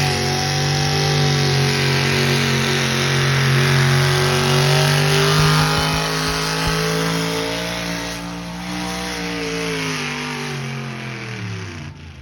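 Engine of a pulling vehicle running hard at high revs under load. Over the last few seconds the revs fall away and the sound fades.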